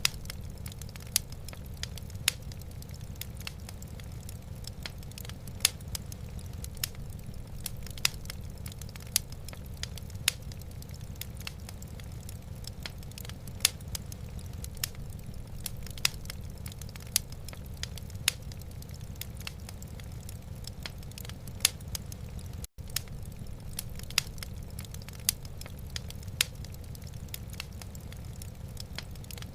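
Wood fire burning in a fireplace, crackling with sharp irregular pops over a steady low rumble. The sound cuts out for an instant about three-quarters of the way through.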